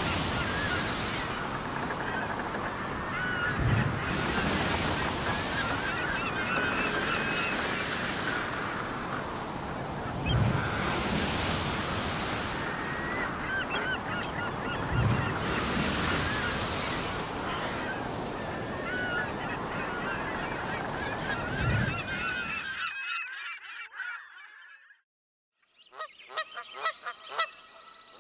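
Surf washing in, with a low swell every few seconds and birds calling over it. After a brief drop to silence near the end, a flock of birds calls loudly, many short calls in quick succession.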